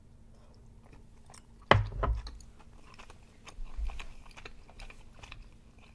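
Close-up mouth sounds of someone chewing chewy Korean rice cakes (tteokbokki) in spicy sauce: small wet clicks and smacks throughout, with a sharper knock about two seconds in and a low thump a couple of seconds later.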